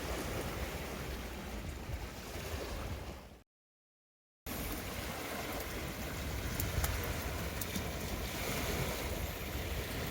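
Wind buffeting the microphone, a steady rumbling noise with a few faint clicks. It fades out about three seconds in, cuts to silence for about a second, then starts again.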